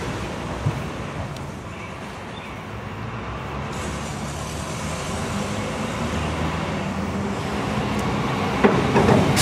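Road traffic going by: a steady rumble of car engines and tyres that dips in the middle and swells again toward the end.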